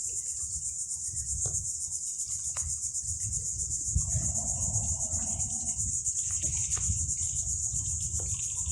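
Cicadas singing: a steady, high-pitched buzz, with a low rumble and a few brief knocks underneath.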